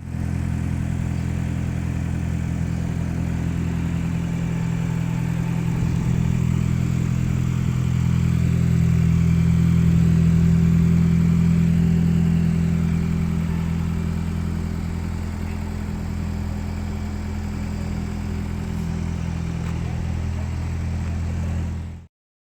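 A car engine running steadily at a low pitch, swelling louder through the middle and easing back, then cutting off abruptly near the end.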